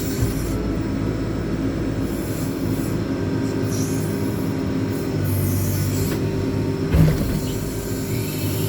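JCB 4CX backhoe loader's diesel engine running while the rear backhoe boom works, its note strengthening and easing as the load changes. A single sharp knock about seven seconds in.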